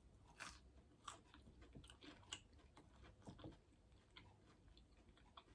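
Faint chewing of an oven-baked, breaded veggie corn dog: scattered small crunches and mouth clicks, with no steady sound behind them.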